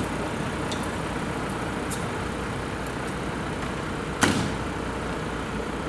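Steady road-vehicle and traffic noise, with no siren sounding. A single sharp knock, like a door shutting, comes about four seconds in.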